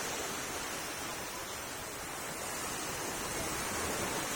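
Steady wash of sea surf, an even rushing noise with no distinct breaks.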